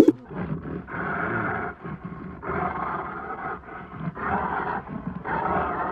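A large animal giving a series of about four rough, throaty roars, each under a second long.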